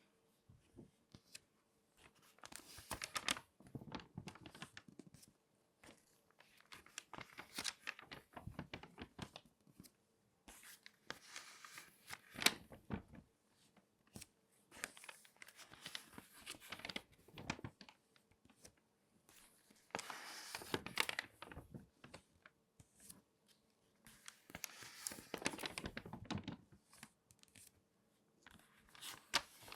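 Crinkly magazine pages being folded and creased by hand: bursts of paper crackling every few seconds, with short quiet gaps between them.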